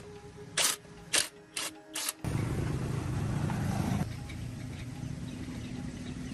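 Four short, sharp knocks, then an engine catches suddenly about two seconds in. It runs loud and rough for a couple of seconds, then settles to a steady idle.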